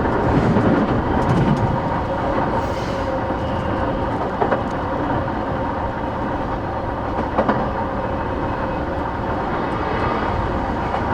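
Interior running noise of an E233 series 8000 electric commuter train travelling at a steady speed: a continuous rumble with a faint steady whine. Two sharp clacks from the wheels passing over rail joints come a little under halfway through and again about two-thirds in.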